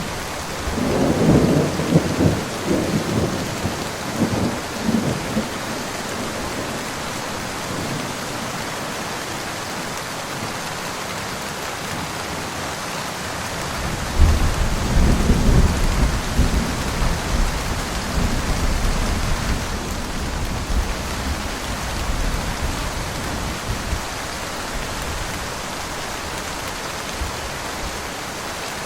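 Steady rain falling, with two peals of thunder rumbling over it. The first starts about a second in and rumbles for several seconds. A deeper, louder one starts about halfway through and fades slowly.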